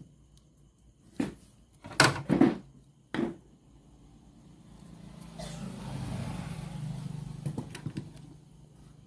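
Handling of a portable radio cassette player under repair: several sharp clicks and knocks in the first few seconds, then a steady low hum with hiss for about four seconds.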